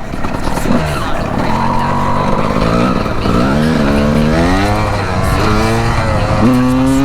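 Two-stroke Honda 250 dirt bike engine revving hard under way, its pitch climbing, dropping and climbing again several times as the rider opens and closes the throttle and shifts.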